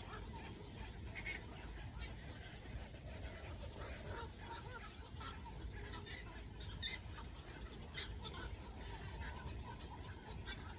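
A flock of birds settling to roost, giving many short scattered calls, over a steady high-pitched insect drone.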